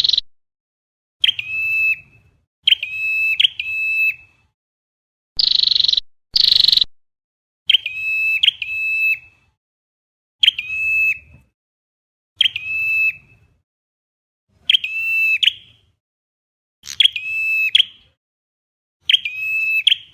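Recorded calls of the chim sâu đầu đỏ, a small flowerpecker-type songbird, played as a trapping lure. Short, high, ringing chirps repeat about every two seconds, some in twos or threes, with a few harsher, buzzier notes mixed in.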